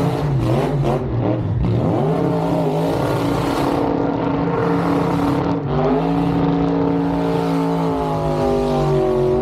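Vehicle engine running close by, revved a few times in the first couple of seconds and then held at a steady, slightly wavering pitch, with a brief dip about halfway through.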